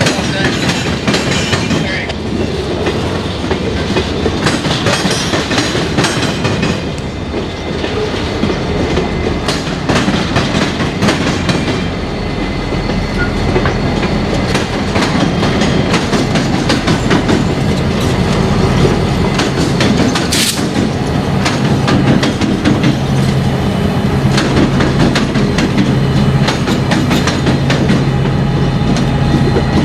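Train rolling by, its wheels clattering irregularly over rail joints. A steady low hum comes in about twelve seconds in, and there is one sharp bang about twenty seconds in.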